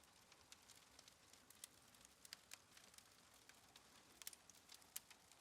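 Faint crackling of a wood fire: irregular small sharp pops and clicks over a soft hiss, a few slightly louder pops in the second half.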